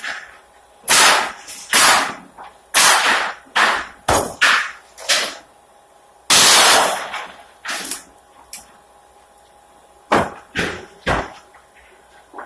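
Pneumatic nail gun firing nails into pallet boards: about a dozen sharp cracks at an irregular pace, each with a short burst of air noise, with a longer pause in the middle.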